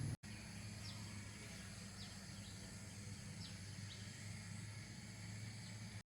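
Faint background ambience: a steady low hum with a few short, high, falling chirps scattered through it.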